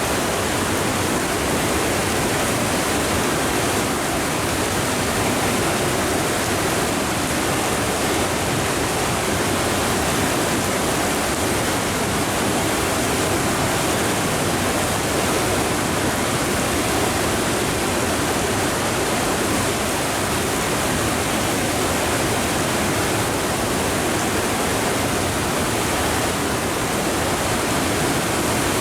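Sogi Falls on the Sendai River in flood, the swollen river pouring over the falls in a steady, unbroken rush of water.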